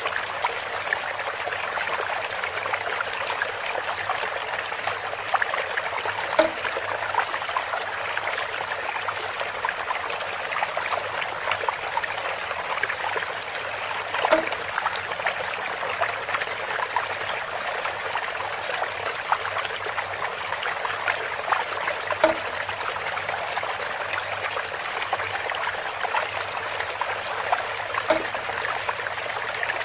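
Water trickling steadily through a bamboo spout, with a brief brighter plink about every eight seconds.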